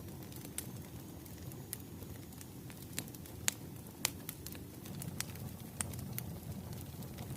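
Wood fire crackling: a steady low rumble of burning logs with irregular sharp pops, the loudest two about halfway through.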